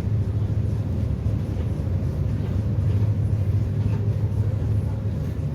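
Steady low drone of the Damião de Goes passenger catamaran's engines, heard from aboard the ferry, with a faint steady hum above the rumble.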